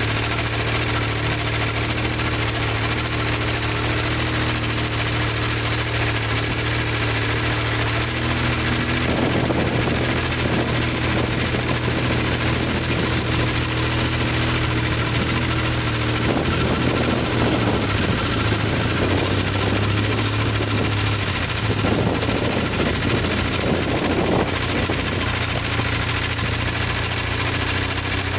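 Antique tractor engines running under load, a steady low engine note that shifts in pitch a few times, with the rough, irregular noise of machinery working in the field.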